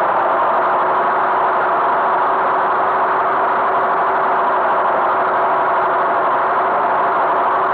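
Tractor engine running at a steady speed: a constant, unchanging drone.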